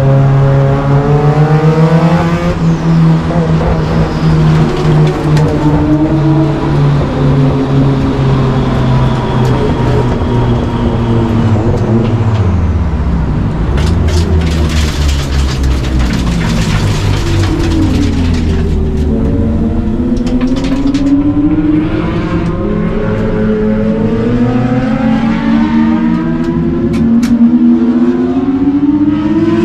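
Nissan Silvia S15 race car engine revving hard under full throttle. The pitch climbs and drops back at each gearshift. About ten seconds in it falls away through downshifts under braking, runs low and rough for a few seconds, then climbs through the gears again.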